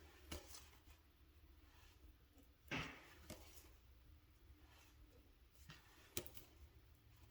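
Faint handling of a deck of oracle cards: a few soft taps and brushes as cards are flipped and laid down, the loudest about three seconds in.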